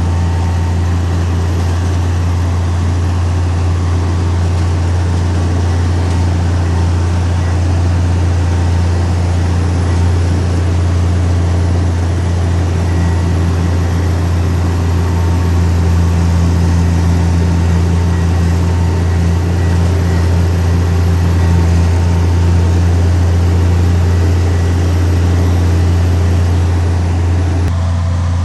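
Heavy diesel engine running steadily, a constant deep drone with fainter steady tones above it. The sound changes abruptly near the end.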